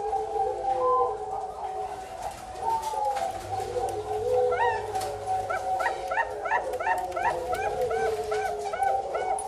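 Zebra doves (perkutut) cooing: several wavering coos overlap throughout, and from about halfway a quick string of short, arched notes repeats two to three times a second.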